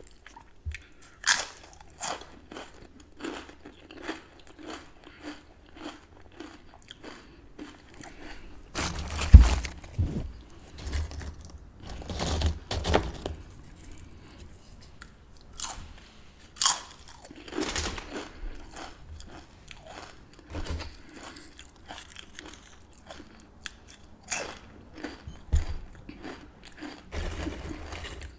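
Close-miked ASMR chip eating: crisp chips with dip being bitten and chewed, in an irregular run of sharp crunches. The loudest bite comes about nine seconds in.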